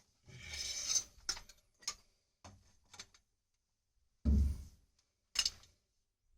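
Irregular clicks and light knocks of hand tools and pipe fittings being handled, with a brief rustle near the start and a louder knock about four seconds in.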